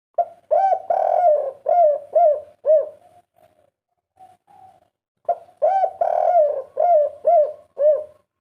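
Spotted dove (tekukur) singing its 'kuk 3' coo twice: each phrase is a couple of short coos, one longer drawn-out coo, then three short 'kuk' notes. Softer low coos fill the gap between the two phrases.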